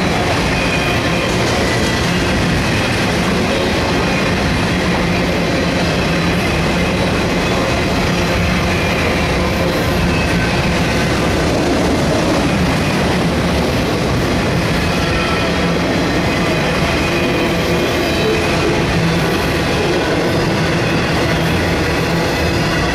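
Loaded autorack freight cars rolling past: steel wheels on rail making a steady, unbroken rolling noise.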